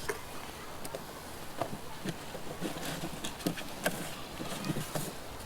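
Scattered light knocks and clicks of beehive boxes and frames being handled, over a faint outdoor background.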